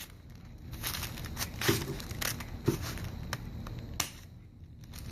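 Scissors snipping through folded tissue paper, with the paper crinkling between cuts; irregular snips, the sharpest about four seconds in.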